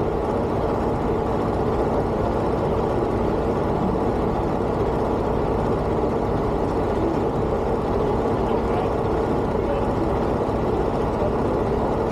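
Semi-truck running, a steady low engine drone with no breaks or sudden events.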